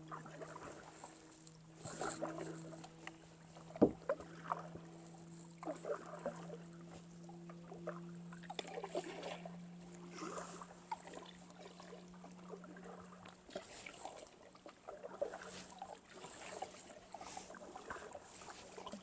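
Kayak paddling: irregular paddle swishes and splashes in the water, with a sharp knock about four seconds in. A steady distant engine hum runs underneath.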